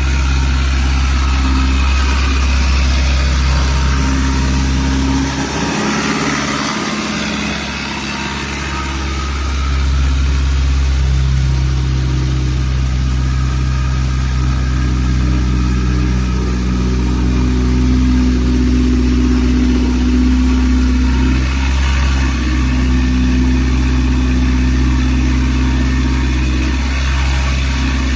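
Mitsubishi 4B12 2.4-litre inline-four running on an engine test stand, idling steadily. Its note dips and changes for a few seconds about six seconds in, then settles back to idle.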